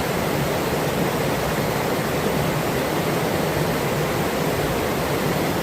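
Forest river's flowing water, a steady, even rush.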